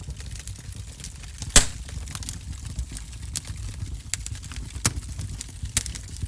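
Wood fire crackling in a fireplace: irregular sharp pops and snaps over a low steady rumble of the flames, with one loud pop about a second and a half in.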